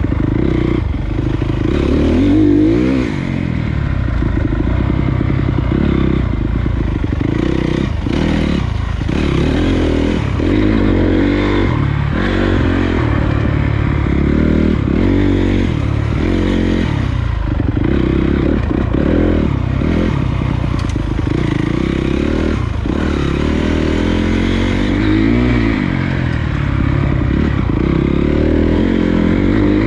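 Honda CRF250 dirt bike's single-cylinder four-stroke engine under way, its pitch rising and falling again and again as the throttle is opened and closed, with scattered knocks over the rough ground.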